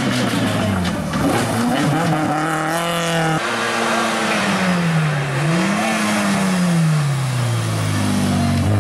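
Two rally cars' four-cylinder engines in turn, first a Fiat Ritmo, then an Autobianchi A112 Abarth, revving up and down through gear changes as each car approaches. The sound switches abruptly from one car to the other about three and a half seconds in, and near the end the engine note drops as the Abarth slows.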